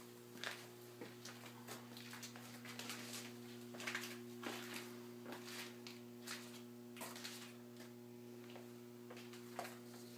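Steady electrical hum with scattered faint clicks and rustles.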